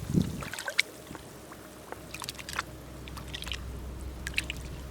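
Scattered small clicks and wet squishes of shellfish being picked out of wet mud, over a low steady rumble that grows in the second half.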